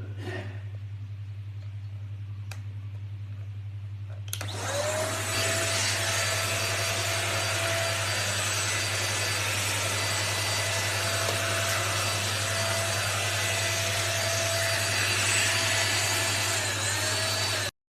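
Deerma DX700S handheld cyclone vacuum cleaner switched on about four seconds in, its motor spinning up within a moment to a steady whining run with a loud rush of air. It stops abruptly near the end.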